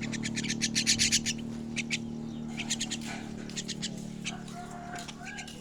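Young starling (jalak) chicks calling in quick, harsh chirps in clusters, loudest about a second in, over a steady low hum.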